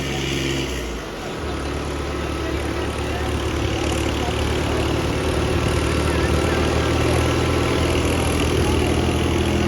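Diesel tractor engine running with a steady low note. About a second in the note breaks off and dips, then it picks up again and grows slowly louder under load.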